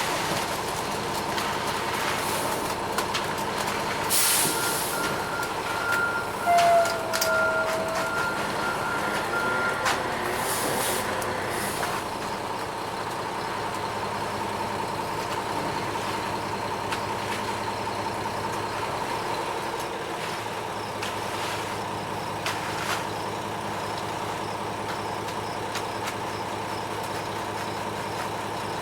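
Front-discharge ready-mix concrete truck running steadily, with a constant whine over the engine. Short bursts of air hiss come about four seconds and again about eleven seconds in.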